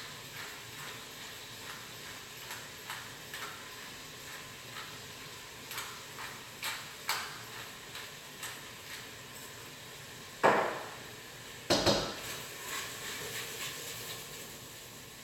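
Kitchen cooking clatter: scattered light knocks and clinks of utensils and cookware, with two louder rushes of noise about ten and a half and twelve seconds in, each fading over about a second.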